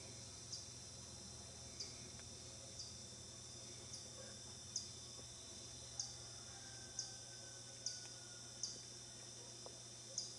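Insects trilling in a continuous high buzz, with a sharper pulse about once a second.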